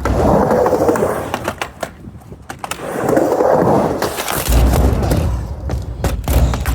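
Skateboard wheels rolling back and forth across a mini ramp, swelling twice as the board runs through the transitions. Sharp clacks and heavier board thuds land in the second half.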